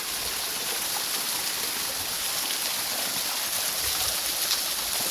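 Small jungle waterfall at low flow, water falling and splashing in a steady hiss.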